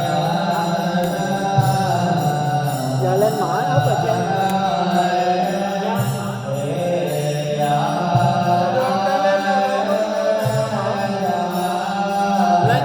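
Buddhist devotional chanting over steady instrumental backing music, with held, gliding melodic lines over a low drone.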